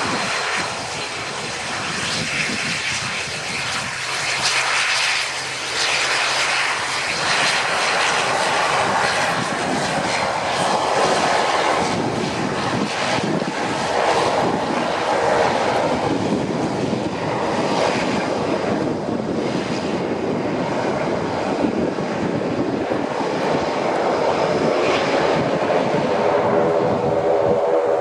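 Airliner engines running loud and steady, a broad rushing noise close by.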